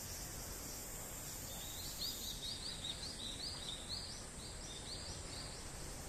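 A bird calling: a run of short rising chirps, about three a second, starting about a second and a half in and stopping shortly before the end, over a steady high insect hiss.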